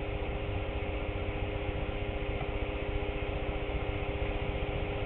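Steady whirring hum of a battery charger's small cooling fan running, with a few constant tones over an even hiss.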